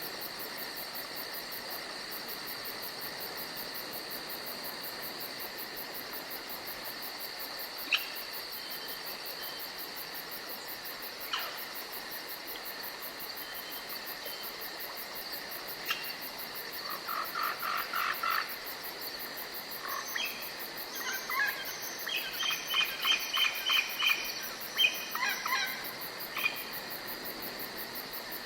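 Forest ambience: a steady high insect drone, with a few single bird chirps and then several runs of rapid repeated bird calls over the second half.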